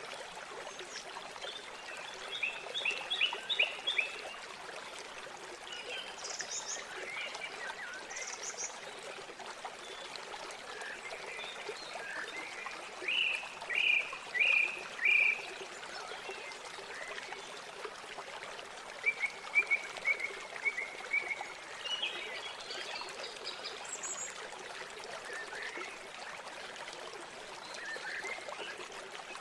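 River water flowing steadily, with birds calling over it in scattered bursts of chirps and short trills. The loudest is a run of short, repeated notes about halfway through.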